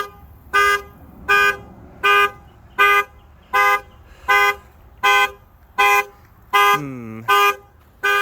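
Car alarm sounding the horn in a steady pattern, about eleven short two-tone honks evenly spaced a little under a second apart. A brief falling tone cuts in about seven seconds in.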